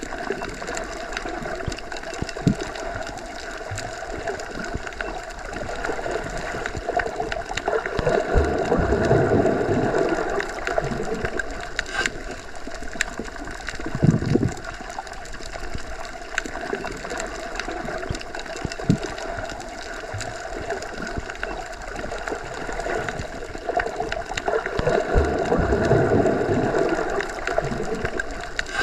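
Underwater ambience as heard while submerged: a continuous muffled wash of water with gurgling, swelling louder about nine seconds in and again near the end, with a few sharp clicks scattered through it.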